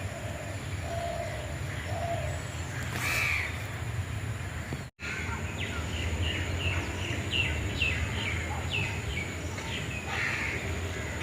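Crows cawing, with a quick run of short falling chirps from a smaller bird in the middle, over a steady low rumble. The sound cuts out for an instant just before halfway.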